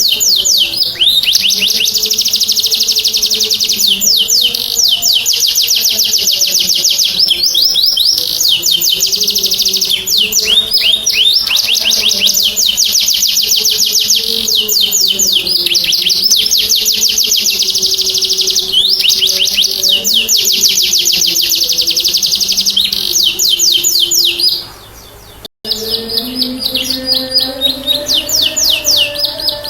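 Domestic canary singing: long, rapid, high-pitched trills and rolls, phrase after phrase, with a brief break about 25 seconds in before the song resumes.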